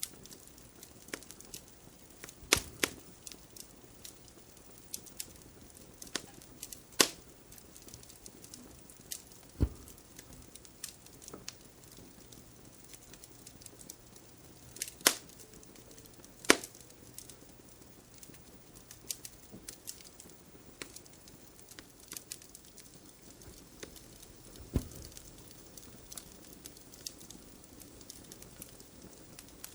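Wood fire crackling, with irregular sharp pops and about half a dozen louder snaps over a faint steady background.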